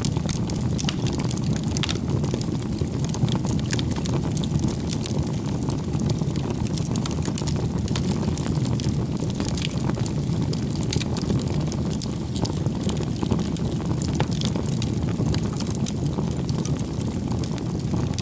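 Wood bonfire burning: a steady low rumble of flames with frequent sharp crackles and pops throughout.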